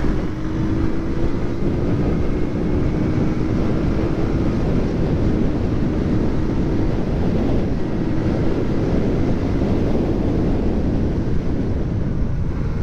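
Motorcycle engine running while riding, with wind rushing over the microphone; the engine note rises slowly in pitch over the first several seconds as the bike speeds up.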